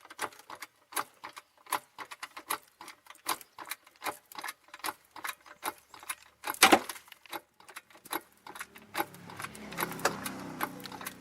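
Irregular metallic clicking and clinking from tools or a jack being worked under a car, about three to five clicks a second. There is one louder clank about two-thirds of the way through, and a low steady hum comes in near the end.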